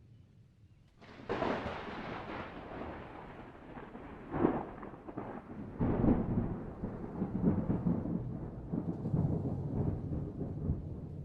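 Thunder: a sudden crack about a second in, then a long rolling rumble with further sharp cracks around four and a half and six seconds in.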